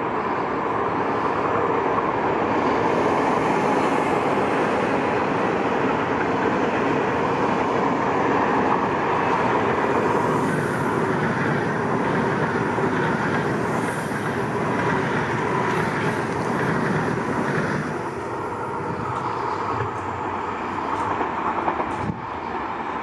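Frecciarossa 1000 high-speed electric train running past along the platform: a steady rush of wheels on rail and air that eases off over the last few seconds.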